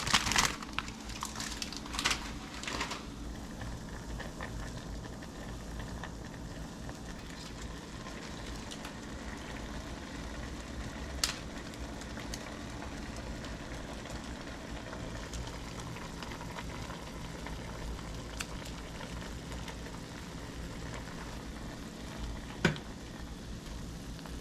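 A pot of water boiling on the stove with instant ramen noodles cooking in it, a steady bubbling with a low hum underneath. A few sharp clicks or knocks stand out, about 2, 11 and 23 seconds in.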